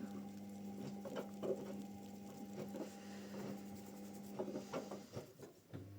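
Washing machine running: a steady motor hum with light clicking and rattling. The hum stops about five seconds in, and a lower hum starts near the end.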